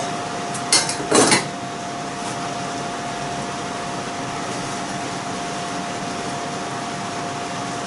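Kitchen pan noises as spaghetti is added to the mushroom sauce: a short double clatter about a second in, then a steady hiss with a faint constant whine.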